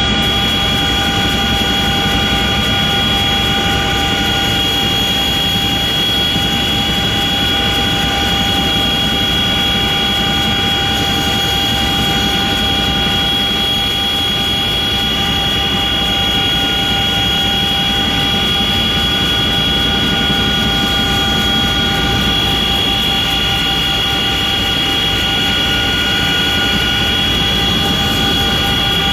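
An aircraft running steadily: a constant high, several-toned whine over a broad rushing noise, with no change in pitch or level.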